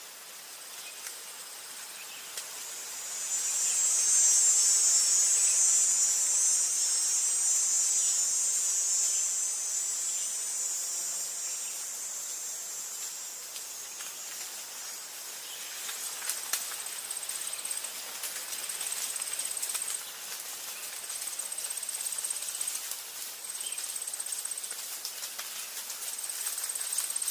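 Forest insects calling: a dense high-pitched insect buzz swells about three seconds in and fades over several seconds, then gives way to short high trills repeating with gaps, over a soft background hiss.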